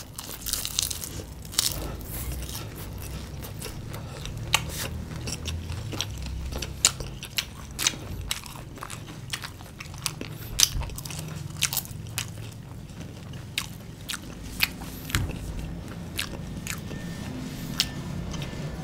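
Two people biting into and chewing crisp deep-fried battered food, with frequent sharp, irregular crunches over a steady background of chewing.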